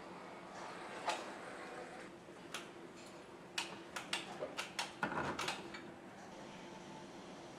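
Assembly-line factory ambience: a steady machinery hum under irregular sharp clicks and clacks, with a quick run of them in the middle.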